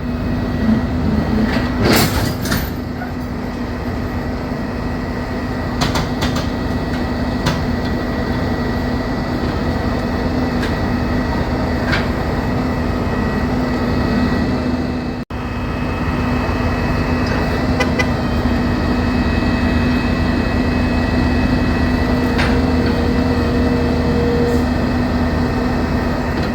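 Heavy-duty wrecker's diesel engine running steadily with a constant low hum, and a few sharp knocks.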